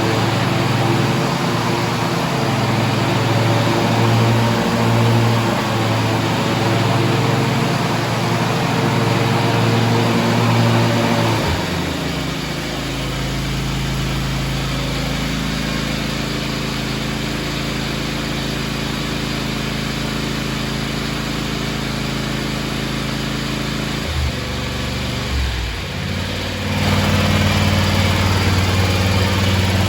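John Deere X590 garden tractor's two-cylinder fuel-injected Kawasaki engine running steadily. Its note changes about twelve seconds in and again briefly around twenty-five seconds before settling back to a steady run.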